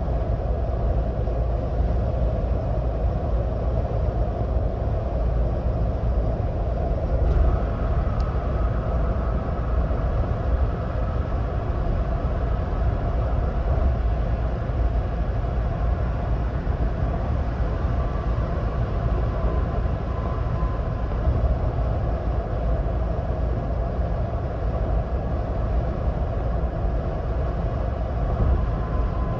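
Steady low road and engine rumble of a 2026 Ford Bronco Badlands driving at highway speed. A single short click sounds about seven seconds in, and a faint whine is heard after it.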